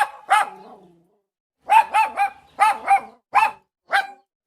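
A dog barking in short, high-pitched yaps: two barks, a pause of about a second, then a quick run of about seven barks.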